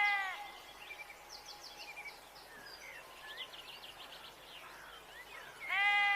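Sheep bleating: one high, wavering bleat trails off about half a second in and another begins near the end. Between them, faint background with high bird chirps or insect trills.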